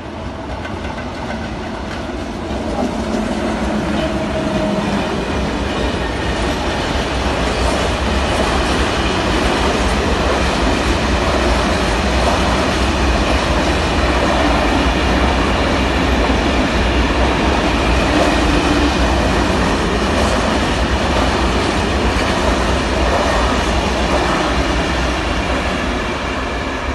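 Train passing close by on the line, its wheels running over the rails. The sound builds over the first several seconds, then holds as a steady rumble before easing slightly near the end.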